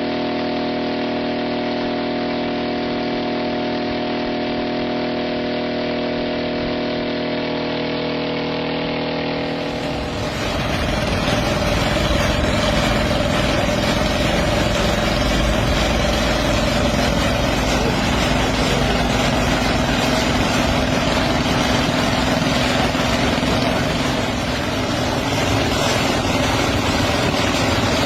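Homemade helicopter's engine running steadily with an even hum of tones. About ten seconds in it gives way to a louder, rougher running noise with a faint steady whine.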